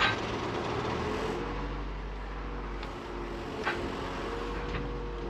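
Komatsu PC56 mini excavator's turbocharged diesel engine running steadily under hydraulic load as the controls are worked, with a faint steady whine over a low hum and a few light clicks.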